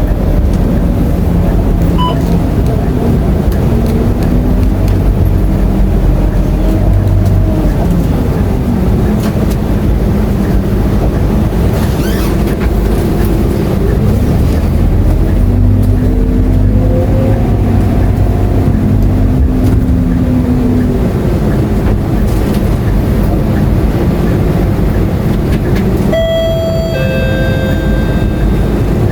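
Scania K230UB city bus's diesel engine heard from inside the cabin on the move, a steady low rumble whose pitch rises and falls several times as the bus accelerates and changes gear. A short two-note electronic chime sounds near the end.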